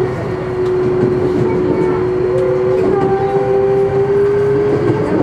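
Kintetsu electric train running at speed, heard from inside the passenger car, with a steady whine that rises slightly in pitch.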